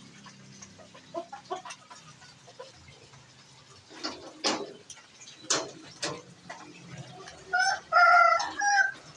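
Rooster crowing near the end, after a few short sharp sounds a couple of seconds earlier.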